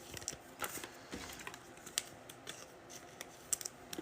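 Trading cards being handled and sorted by hand: faint, scattered light clicks and rustles of card stock sliding and tapping against each other.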